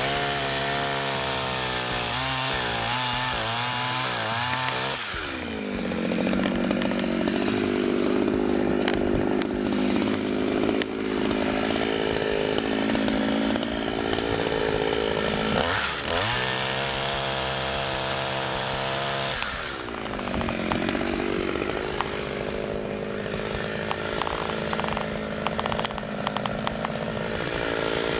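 Petrol chainsaw idling, then revved to full throttle and cutting into wood for about ten seconds. It drops back to idle for a few seconds, then revs up and cuts again through the rest of the stretch.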